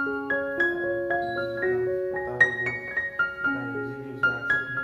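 Background piano music: a gentle melody of struck notes, each ringing and fading, a few notes a second.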